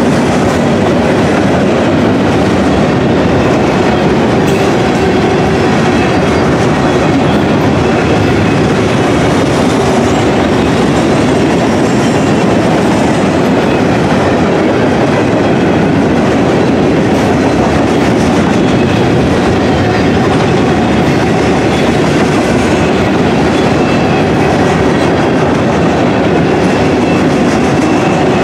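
Freight train of gondola cars rolling past at speed, steel wheels on rail making a steady, loud rumble.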